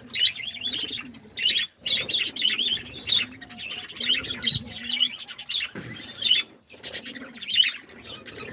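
A flock of budgerigars chattering and chirping continuously in an aviary, with a few low coos underneath and wings fluttering now and then.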